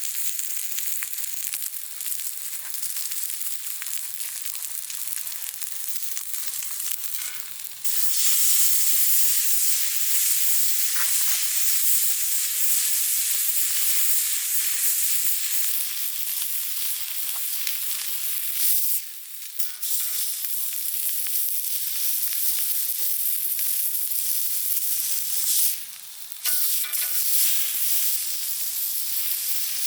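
Meat sizzling and frying in hot fat over a campfire, a dense steady hiss that gets louder about a quarter of the way in, with two short breaks.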